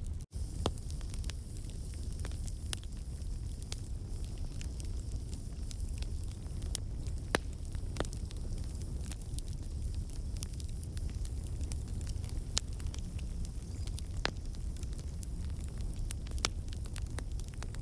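Wood campfire crackling: scattered sharp pops from the burning logs over a steady low rumble of the fire.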